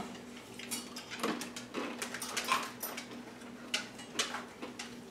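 Dry roasted broad bean crisps being crunched and chewed: a run of short, sharp crackles at irregular intervals.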